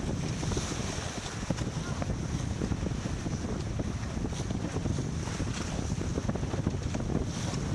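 Steady wind buffeting the microphone on a sailboat under way, with the wash of water along the hull.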